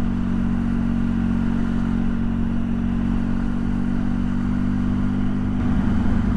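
Motorcycle engine running steadily under way, its note shifting to a more pulsing beat about five and a half seconds in.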